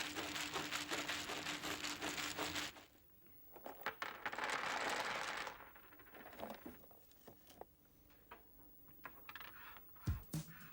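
Woodworking machine running with a steady hum under a dense crackle of cutting, stopping about three seconds in; then a short hiss and scattered light clicks and knocks of small wooden pieces.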